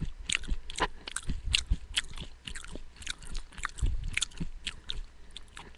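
Close-up chewing of raw sprouted beans and grains: irregular crunchy, wet mouth clicks, two or three a second.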